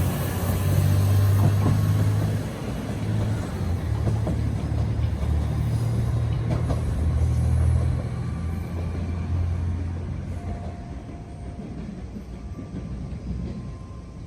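Diesel railcar running with a low, throbbing engine rumble, which fades over the second half.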